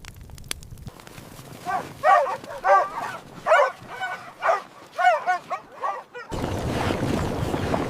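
A canine giving a quick run of short, high yips and whines, each call bending up and down in pitch. About six seconds in, the sound cuts abruptly to a steady noise.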